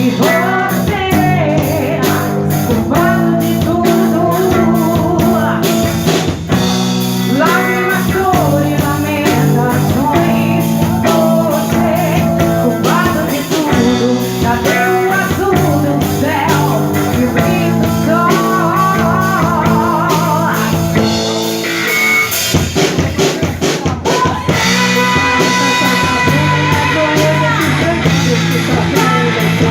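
Rock band playing live: a singer over electric guitar, bass and drum kit. The vocals drop out for a few seconds past the middle, leaving the instruments, then come back.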